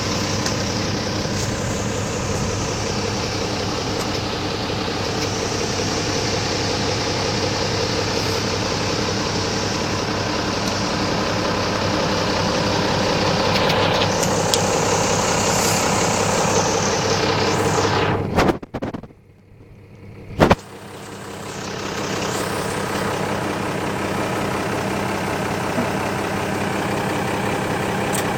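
The diesel engine of a 1988 Unimog SEE tractor running steadily. About two-thirds of the way through it drops away sharply for about two seconds, there is a sharp click, and then it builds back up to steady running.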